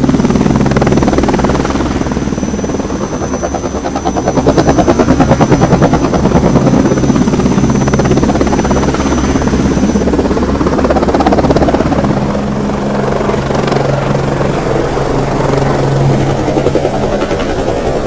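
Helicopter flying, its rotor beating in a rapid even pulse over a steady engine drone, loudest about four to seven seconds in.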